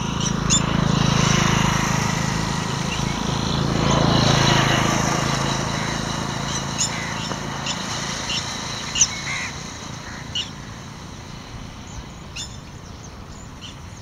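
Birds chirping: short, sharp, high calls scattered throughout, the loudest about nine seconds in. Under the first six seconds a low rumble swells twice and then fades away.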